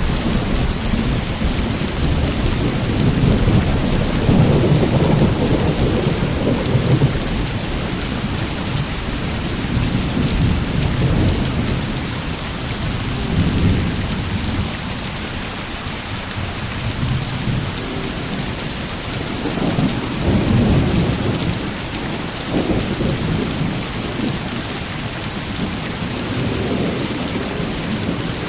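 Heavy rain falling steadily, with low rolling rumbles of thunder swelling and fading beneath it, the strongest a few seconds in and again about two-thirds of the way through.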